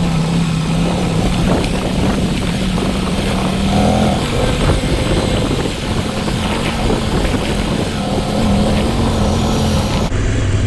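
Adventure motorcycle engine running under load on a rough dirt climb, its note holding fairly steady with slight wavering, under a dense rush of wind and track noise.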